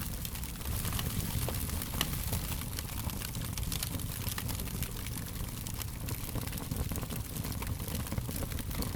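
Wood fire crackling: a steady low rumble of burning with many small, irregular pops and snaps throughout, one sharper snap about two seconds in.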